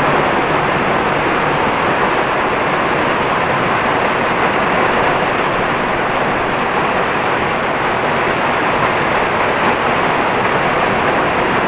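Heavy tropical downpour, a steady hiss of rain pouring down hard.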